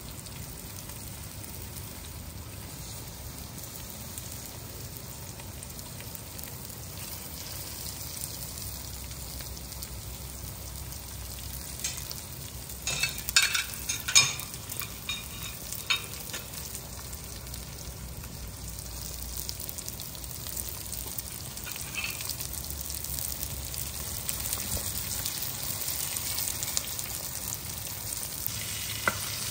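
Whole prawns sizzling as they fry in curry paste and oil in a wok, with a cluster of sharp clicks and knocks about halfway through. The sizzle grows louder near the end as a metal spatula stirs them.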